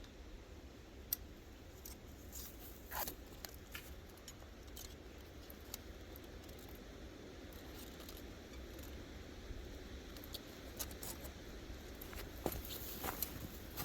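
Faint, scattered metallic clicks and clinks of trapping gear being handled, with a few louder knocks about three seconds in and near the end, over a low steady wind rumble on the microphone.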